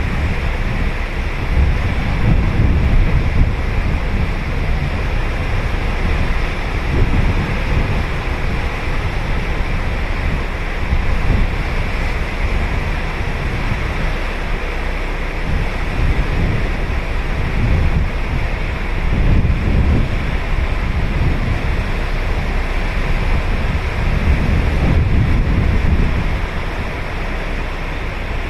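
Ocean waves breaking and washing on a sandy beach, a steady surf wash with a low rumble, and wind buffeting the microphone in irregular gusts.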